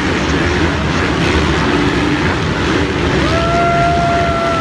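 Motocross bikes racing: a steady wash of dirt-bike engine noise. A little past three seconds in, one engine holds a single steady note for over a second.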